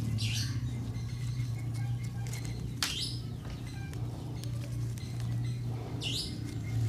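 A bird chirping: three short high calls that sweep down in pitch, a few seconds apart, over a steady low hum. A sharp click comes with the middle call.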